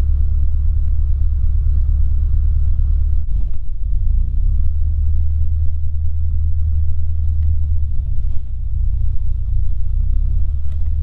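Cessna 150's Continental O-200 four-cylinder aircraft engine running at low power, a steady low drone whose note shifts slightly about three seconds in.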